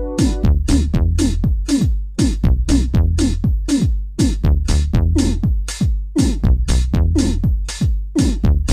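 Electronic techno track: a drum-machine beat of kicks that drop in pitch and crisp hi-hats, about four hits a second, over a steady deep bass. A held synth chord cuts off just at the start.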